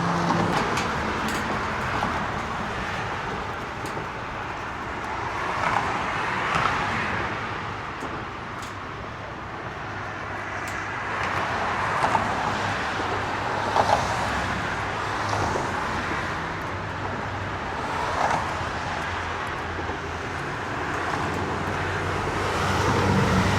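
Road traffic passing, a steady rush that swells and fades as vehicles go by several times, with a few light metallic clicks and taps.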